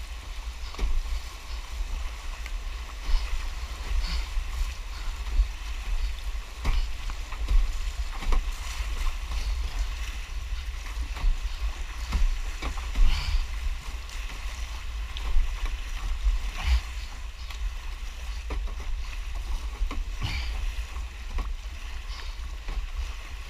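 Kayak paddle strokes dipping and splashing in fast floodwater every second or two, over a steady low rumble.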